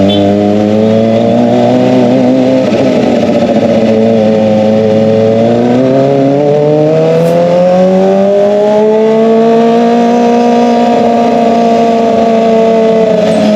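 Kawasaki ZX-25R's inline-four engine running loud through an SC-Project exhaust. Its pitch holds at first, falls over a couple of seconds, then climbs steadily, holds high and drops again near the end.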